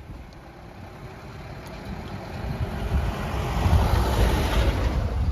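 A motor vehicle going past on the road, its engine rumble and tyre noise growing louder to a peak about four seconds in.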